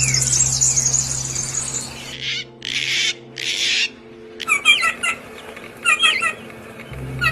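Birds calling: fast high-pitched chirping for the first two seconds, then two harsh, hissing squawks, then short chirped phrases repeated several times. A low steady hum lies under the first two seconds and returns near the end.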